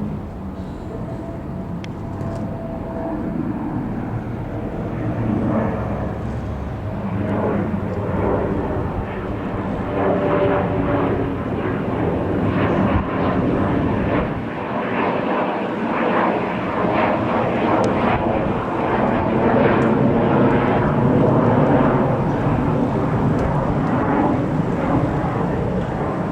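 Dassault Falcon 20 twin-engined jet flying past: a rumbling jet-engine roar that builds steadily and is loudest through the second half.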